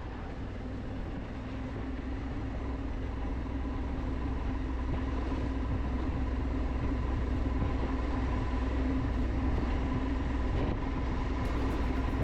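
A vehicle engine drones steadily at a constant speed, a low rumble with a steady hum, growing louder over the first few seconds and then holding even.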